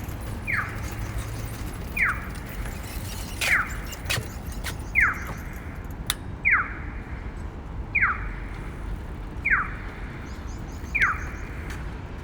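Audible pedestrian-crossing signal chirping, a quick falling electronic tone repeated evenly about every one and a half seconds, over steady street noise.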